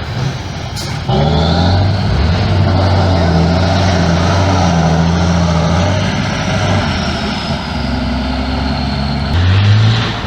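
Competition trial truck's engine running hard, getting suddenly louder about a second in and holding with small rises and falls in pitch, surging again near the end.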